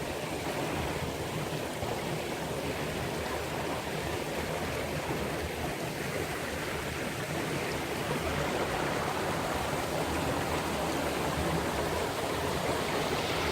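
Steady rushing of flowing water, getting a little louder toward the end.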